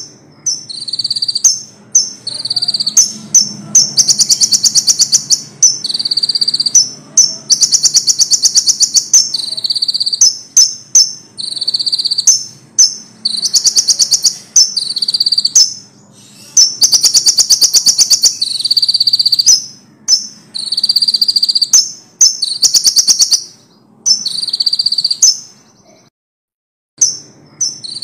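Konin songbird singing loudly in quick repeated high phrases: clear whistled notes alternating with fast rattling trills, with short pauses between phrases and one complete break about two seconds before the end.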